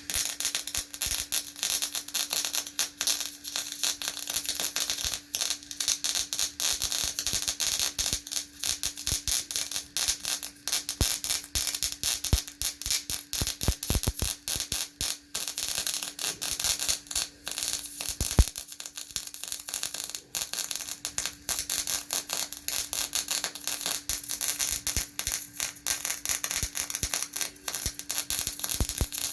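MIG welding arc crackling continuously as a bead is run along a car's sill pinch seam, starting abruptly right at the start, with a steady hum underneath.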